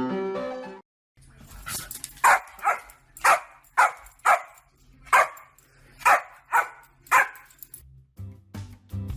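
A dog barking, about nine sharp barks in an uneven series. Piano music stops just before the barks, and guitar music starts near the end.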